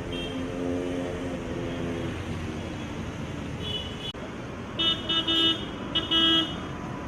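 Vehicle horns honking over steady traffic noise: one lower horn held for about two seconds at the start, then a run of short, louder honks in the second half.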